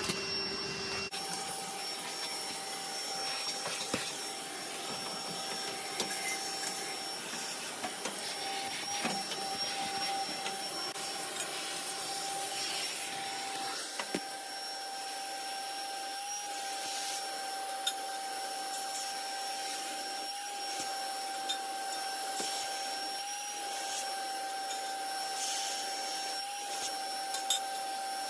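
Vacuum running steadily with a high whine, sucking dust out of a gas boiler's combustion chamber, with scattered small clicks and knocks from the nozzle and debris.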